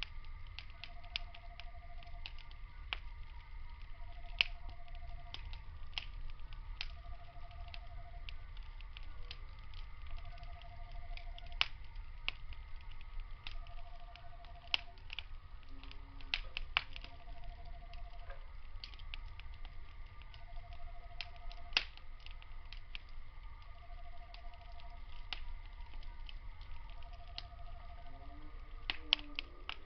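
Wood fire crackling, with sharp pops scattered irregularly throughout. Behind it, night insects sing: a steady high trill and a short mid-pitched call repeating about every second and a half.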